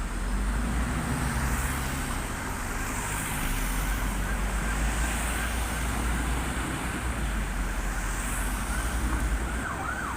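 City street traffic with a heavy vehicle's deep engine rumble. Near the end an emergency-vehicle siren starts, wailing up and down about twice a second.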